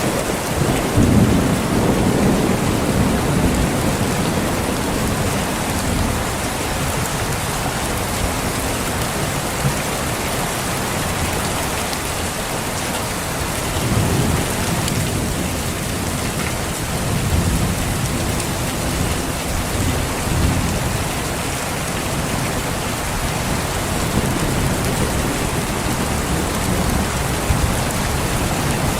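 Steady heavy rain, with rolls of thunder rumbling low about a second in and again from about 14 seconds.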